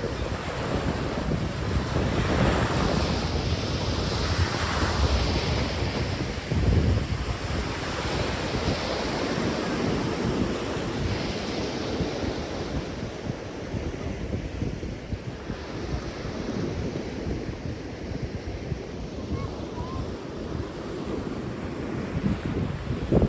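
Sea waves breaking and surging on the shore in a strong wind, with the wind buffeting the microphone in low, uneven gusts.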